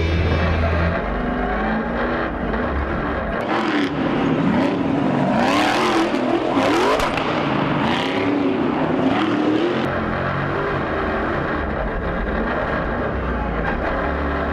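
Stadium Super Truck V8 engines racing, the engine pitch sweeping up and down again and again as the drivers rev and lift.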